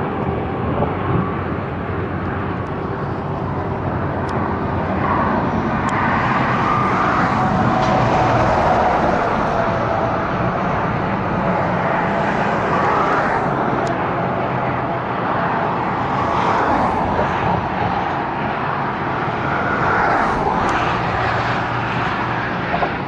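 Fast highway traffic going by, with vehicles, semi trucks among them, swelling past every few seconds over a steady roar of tyres and engines, and wind noise on the microphone.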